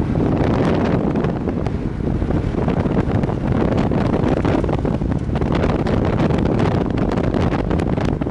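Strong wind buffeting the microphone on a moving Viper V250C cruiser motorcycle, with the bike's running and road noise underneath.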